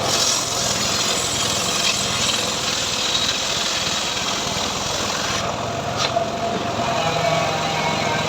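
Engine-driven homemade sawmill (gergaji srekel) running steadily, a dense mechanical noise with a few steady tones; the highest hiss drops away about five and a half seconds in.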